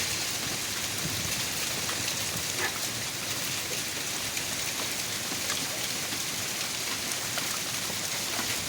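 Rain falling steadily, an even hiss of rain on surfaces.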